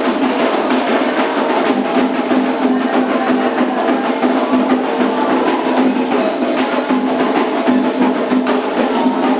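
Candomblé ritual drumming: atabaque hand drums with a struck bell or woodblock part, playing a dense, fast, steady rhythm.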